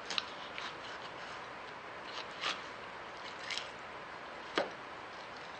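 Kitchen knife cutting through a flounder behind the head: a few short scrapes and crunches as the blade meets the bones, the loudest about four and a half seconds in.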